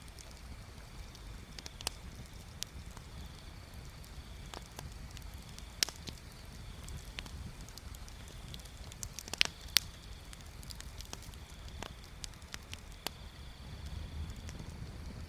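Wood bonfire crackling, with scattered sharp pops over a steady low rumble; the loudest pops come about six seconds in and twice in quick succession about nine and a half seconds in.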